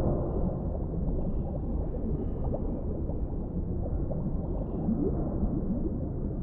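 Deep-sea underwater ambience: a steady low rumble with scattered short rising blips and gurgles.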